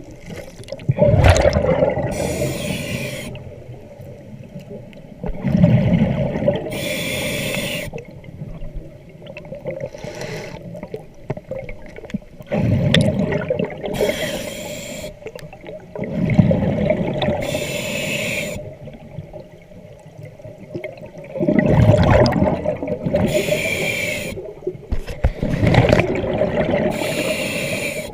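A diver breathing through an underwater breathing regulator: a cycle about every five seconds of a gurgling rush of exhaled bubbles and the hiss of the regulator.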